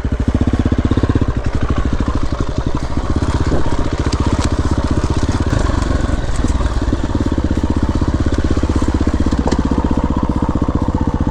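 Dirt bike engine running steadily under load, its exhaust pulsing evenly, with a few sharp clicks over it.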